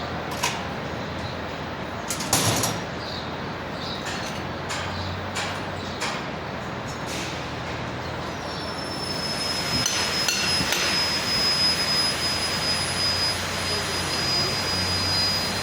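Workshop work on metal: scattered knocks and clanks of tools and parts, a louder clatter a couple of seconds in. From about halfway a steady high-pitched whine from a running machine or power tool joins, and the sound grows a little louder.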